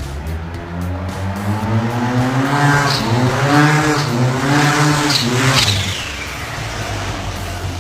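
A high-powered vehicle engine accelerating hard: its pitch climbs in two or three surges, then drops back about six seconds in.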